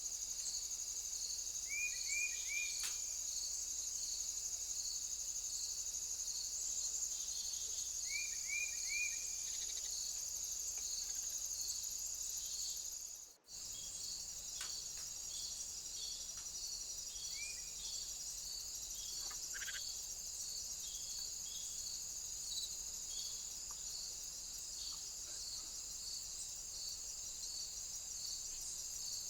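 Insect chorus of crickets: a steady high trill with a row of regular pulsed chirps beneath it. A few quick groups of short high chirps come in over it, and the sound drops out for an instant near the middle.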